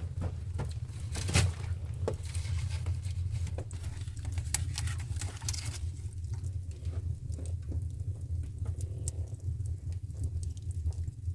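Rain pattering in irregular small taps and drips over a steady low rumble, with one sharper tap about a second and a half in.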